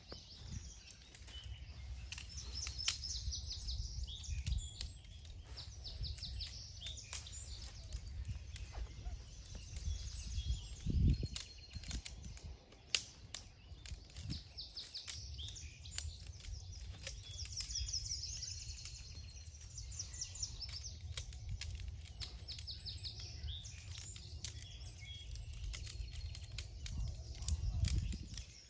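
Songbirds chirping and trilling repeatedly over a steady low rumble, with scattered sharp clicks and knocks throughout.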